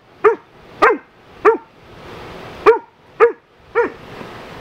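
A dog barking during play with another dog: six short, sharp barks in two runs of three, about half a second apart.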